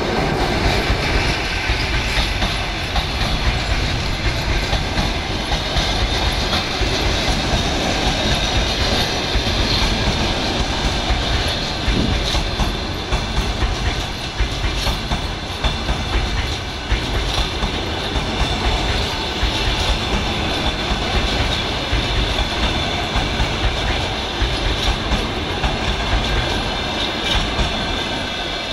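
Passenger train coaches rolling past on steel wheels, with a steady clickety-clack of many short clicks over the rumble of the running gear. The noise starts to fade near the end as the last coaches go by.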